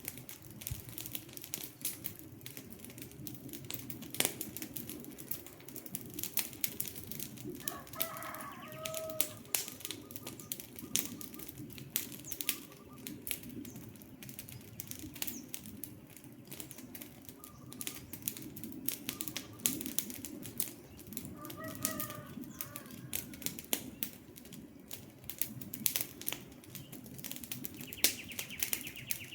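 Wood campfire crackling, with frequent sharp pops and snaps over the steady low rush of the burning logs. A bird calls briefly twice, about eight seconds in and again past twenty seconds.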